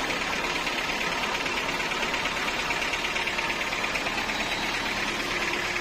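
Sawmill machinery running steadily, a continuous engine-like hum with a fast, even rattling buzz.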